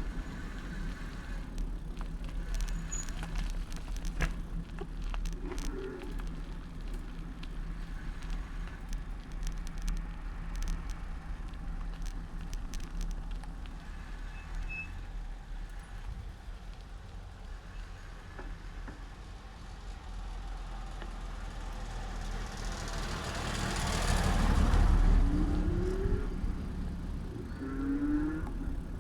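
Street traffic heard from a moving bicycle: a steady low rumble with scattered clicks in the first few seconds, then a motor vehicle passing close, swelling to the loudest point near the end and fading away.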